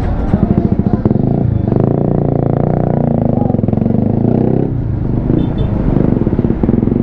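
Motorcycle engine running under way, with wind rumbling on the microphone. The engine note grows fuller and louder from about two seconds in until nearly five seconds, then settles back.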